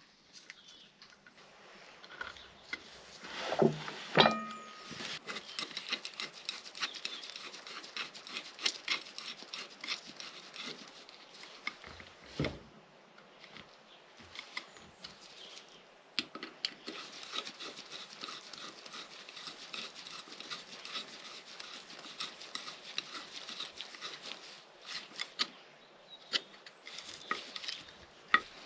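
Hand work on metal: steady scratchy rubbing with many small clicks. About four seconds in, a metal clink rings briefly.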